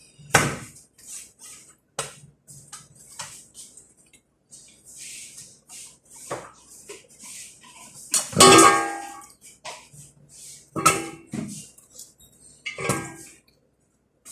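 Metal cookware clanking: a pot and utensils struck several times, each strike ringing on briefly, the loudest about eight seconds in.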